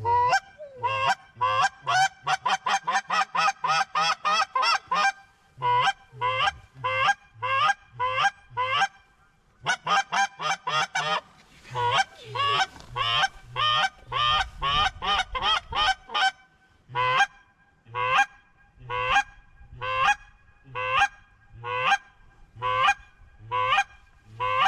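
Goose call blown close by, honking at circling birds. It starts with a fast run of clucks for about five seconds, goes on in quick bursts, and slows to single honks about once a second near the end.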